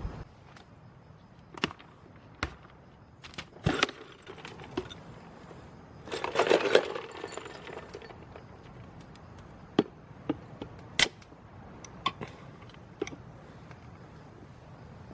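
Wood campfire crackling: irregular sharp pops and cracks, with a dense, louder spell of crackle about six seconds in, then sparser light pops.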